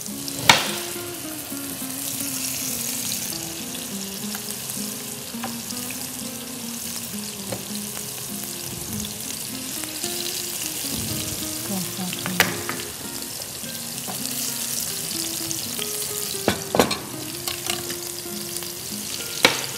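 Marinated chicken pieces frying in a pan with a steady sizzle, broken by several sharp knocks as pieces are set into the pan.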